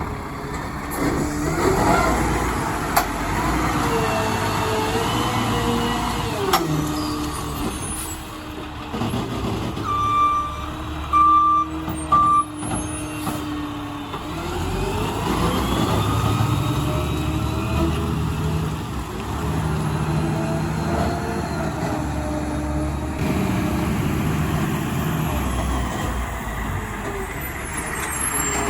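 Mack LR garbage truck with a McNeilus ZR automated side-loader body working: engine and hydraulics run, rising and falling in pitch several times, with a few sharp clicks. Three short, loud beeps come a little over ten seconds in.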